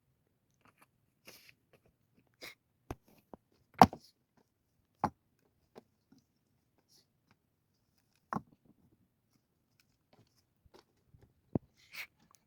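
A handful of sharp knocks and clicks at irregular intervals, the loudest about four seconds in, with quiet between them.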